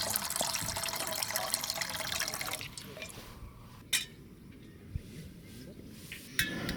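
Liquid pouring or running water that stops about two and a half seconds in, followed by a few sharp clicks or knocks.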